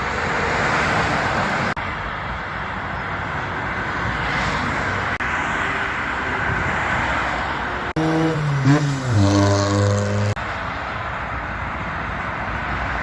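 Heavy road traffic with trucks driving past, the sound broken by short cuts between clips. About eight seconds in, a truck's horn sounds loudly for about two seconds, its pitch dipping and then holding.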